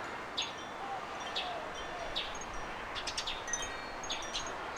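Small garden birds chirping: short, high notes that fall in pitch, repeated about once a second, over a steady background hiss.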